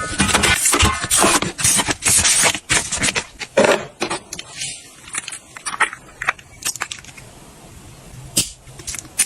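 Hard household objects being handled: a quick run of clicks, knocks and rattles for about the first four seconds, then a few separate knocks.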